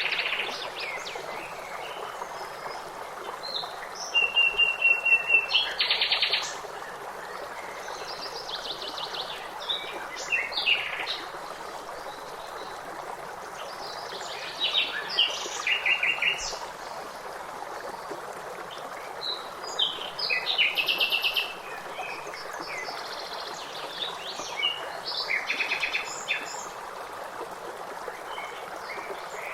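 Several songbirds chirping and trilling in repeated bouts over a steady hiss of running water.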